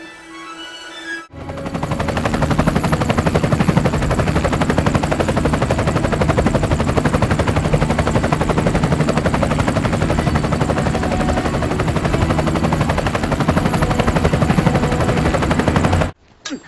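About a second of soft musical notes, then a very loud, harsh, very rapid rattling noise that runs on evenly and cuts off suddenly near the end.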